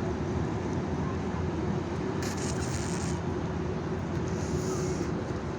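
A steady engine drone holding one low hum, with a brief hiss twice.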